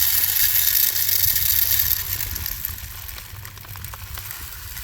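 Wild bird seed mix of corn and sunflower seeds pouring from a bag into a bird feeder: a steady hiss of grains that thins out and fades after about two seconds.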